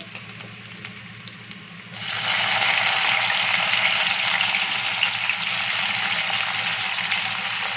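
Chopped garlic and spring-onion whites sizzling in hot oil in a kadai, a steady hiss that becomes much louder about two seconds in.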